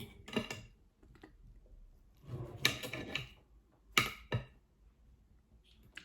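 Cutlery on a plate: a stretch of scraping, then two short sharp knocks.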